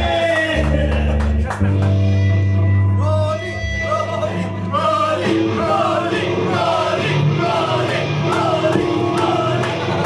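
Live band music with a vocalist singing; held bass notes underneath, and the sung melody comes in about two seconds in.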